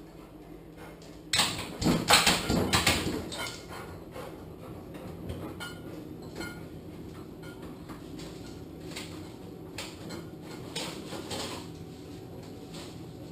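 A burst of rattling and knocking lasting about two seconds, followed by scattered lighter clicks and knocks over a steady low hum. It fits a Labrador retriever pulling at a refrigerator door.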